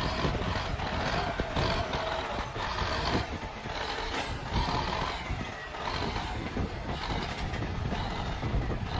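Earth-moving machinery working: steady engine-like running noise with scattered knocks and clatter.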